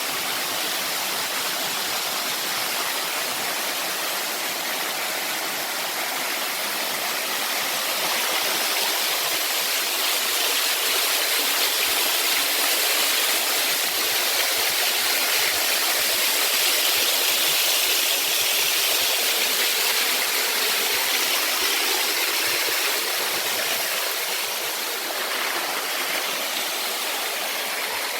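Waterfall water falling and splashing in a steady rush of white noise, growing somewhat louder through the middle stretch, then easing.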